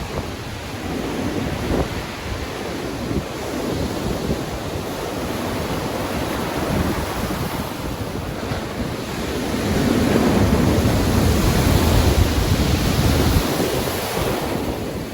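Stormy ocean waves breaking and rushing, with wind, as a continuous roar of surf. A bigger wave swells up about ten seconds in and eases off shortly before the end.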